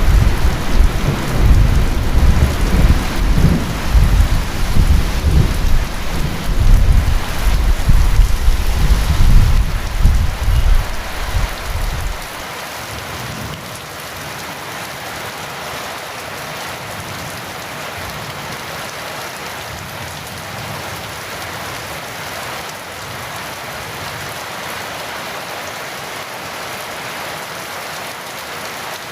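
Heavy rain falling steadily, with a deep rumble of thunder through the first twelve seconds or so that cuts off suddenly. After that only the even hiss of the rain goes on.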